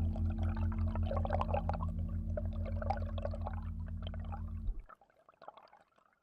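Water trickling and dripping in small splashes, over a low steady hum with an even pulse that fades and cuts off about three-quarters of the way through.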